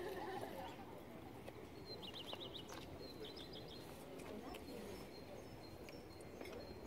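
Outdoor ambience with a small songbird singing two short runs of quick, high notes, about two and three seconds in, over a low steady background hum.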